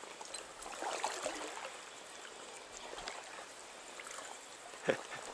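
Shallow stream water running and trickling, with brief splashing about a second in and one sharp knock near the end.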